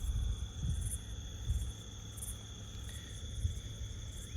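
Night insects trilling in a steady, high, unbroken tone, over an uneven low rumble of wind on the microphone.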